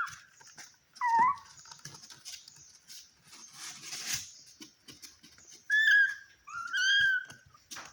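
Calico cat meowing: a short call about a second in, then two longer, drawn-out meows near the end.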